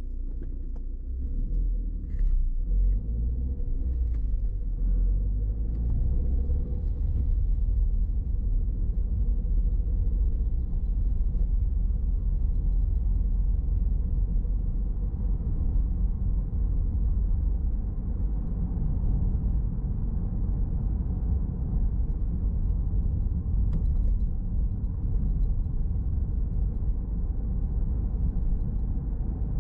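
Car driving on the road: a steady low rumble of engine and tyres, with the engine note shifting in pitch in the first few seconds. A few faint clicks come through.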